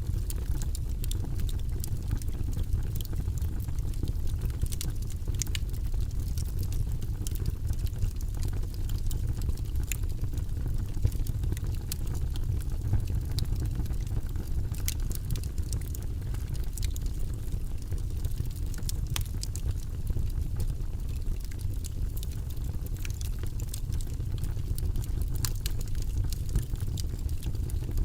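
Wood logs burning in a fireplace: a steady low rush of the flames with frequent, irregular sharp crackles and pops.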